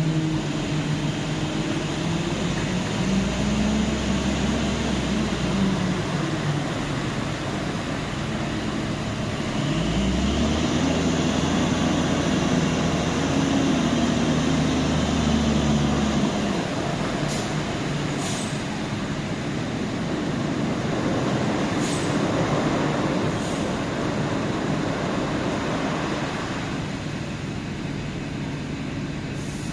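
Steady industrial machinery noise with a low hum that twice swells and glides up and down in pitch, and a few sharp clicks in the second half.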